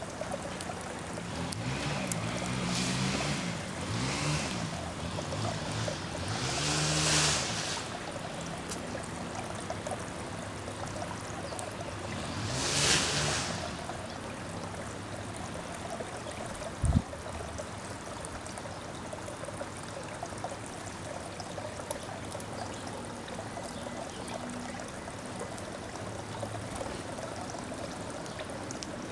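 Steady outdoor rushing noise, with vehicles passing by: one swell rises and fades at a time, three or four in all, each with a pitch that bends up and down as it passes. A single sharp knock comes about 17 seconds in.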